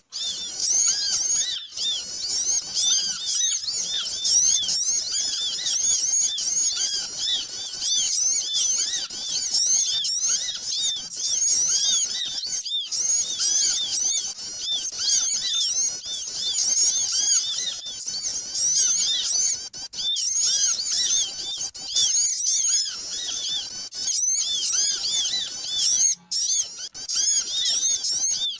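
Bird-lure recording of many small birds chirping at once: a dense, busy chorus of quick, overlapping high chirps. It has a few momentary breaks.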